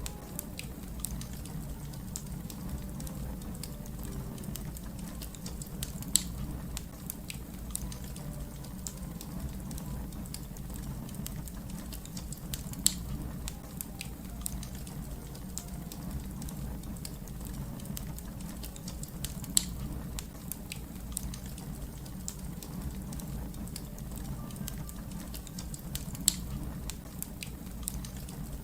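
Wood fire crackling: a steady low rumble of burning with many small snaps, and four louder pops spaced about six or seven seconds apart.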